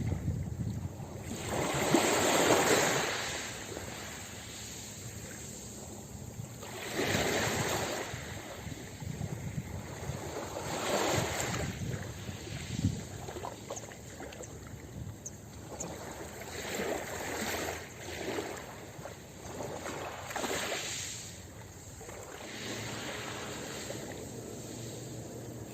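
Ocean waves breaking and washing up a beach: a rushing surge that swells and fades every few seconds, the biggest about two seconds in.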